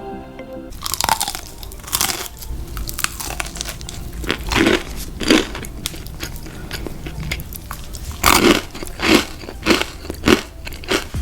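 Close-miked eating of crunchy fried food: crisp bites crunching loudly, several in a row, with chewing in between. A music intro cuts off in the first second.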